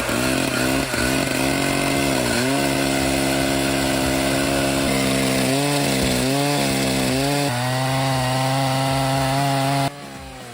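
Chainsaw engine running at high revs while cutting wood. Its pitch sags briefly several times as the chain takes the load, and the sound drops away near the end.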